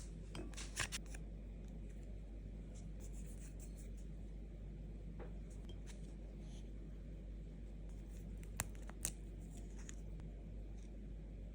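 Small handling sounds, a few soft clicks and crinkles, over a steady low hum.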